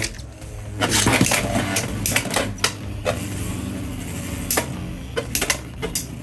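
Two Beyblade X spinning tops, Hells Hammer and Leon Crest, whirring in a plastic stadium and clashing, with repeated sharp hits at irregular intervals.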